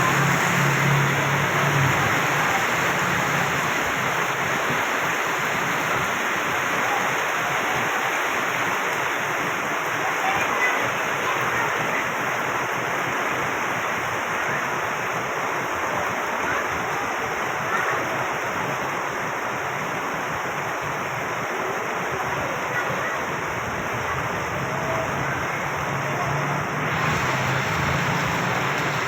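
Heavy rain pouring down in a steady hiss, with traffic passing on the wet road and the swish of tyres through water. A low engine hum shows in the first couple of seconds and again near the end as vehicles go by.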